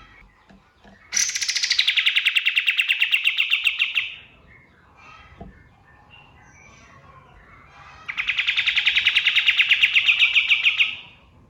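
Kapas tembak bird singing two rapid, rattling trills of about three seconds each, one starting about a second in and the other near the end. Each is a fast string of sharp notes, about eight or nine a second, and the first trill opens higher and drops.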